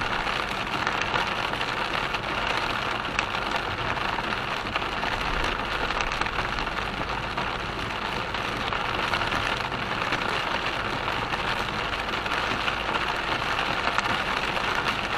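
Steady noise of rain beating on a car driving through a thunderstorm, with water streaming over the road.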